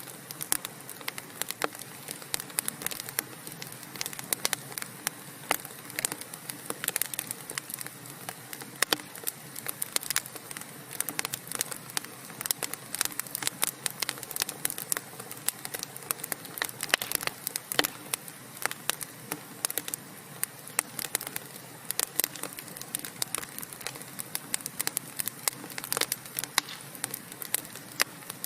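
Wood fire burning in a fireplace: logs crackling and popping with irregular sharp snaps over a steady low hiss of flame.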